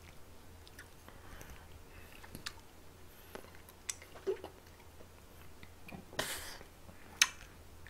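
Close-miked chewing of food, with scattered light clicks of chopsticks against a wooden board. There is a short swish about six seconds in and one sharper click just after seven seconds.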